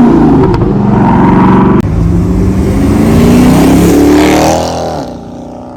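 Car engine accelerating hard: it revs up, shifts about two seconds in, revs up again, then eases off near the end.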